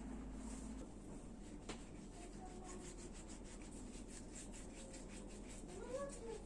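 Faint scrubbing: quick, evenly paced rubbing strokes, about four a second, with a light squeak now and then, as from scouring a surface during cleaning.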